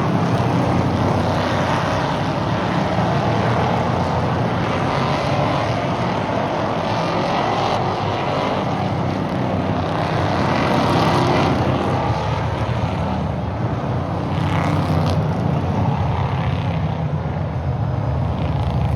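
Stock cars racing around an oval track: a continuous drone of engines at speed that swells and eases slightly.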